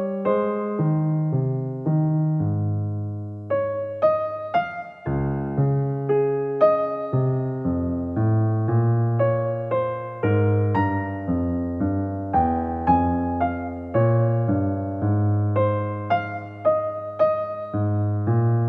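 Keyboard music: a piano-like instrument playing chords over a slowly moving bass line, each note struck and then fading.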